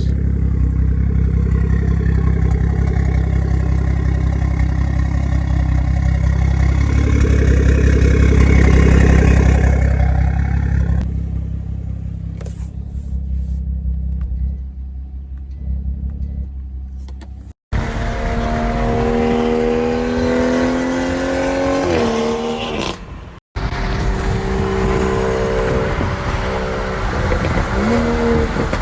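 BMW 340i's B58 turbocharged straight-six exhaust through the Valvetronic muffler with its valves open, accelerating to a peak about a third of the way in and then easing off with a few crackles. After a cut, the engine note rises and falls repeatedly as it revs up through gears.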